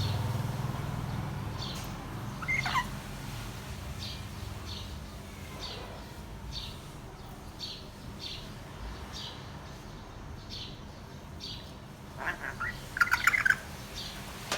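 Grey parrot calling: a single falling call a couple of seconds in and a louder burst of squawky calls near the end. Under them runs a steady series of short high chirps, a little under two a second.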